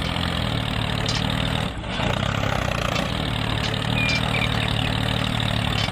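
Tractor engine running steadily, with a brief dip about two seconds in.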